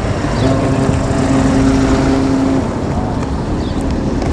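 A motor vehicle engine passing close by on a busy road, holding a steady engine tone for about two seconds over continuous traffic rumble.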